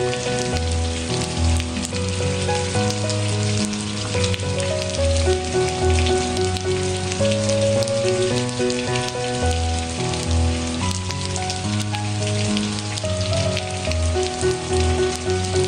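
Steady rain with many small drop ticks, mixed over slow, soft background music of held notes that change about once a second.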